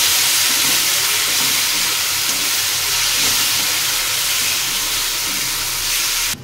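Onion-and-spice masala sizzling hard in hot oil in a wok, stirred and scraped with a spatula, a little water having just gone in while the masala is fried down. A steady loud hiss that cuts off abruptly at the end.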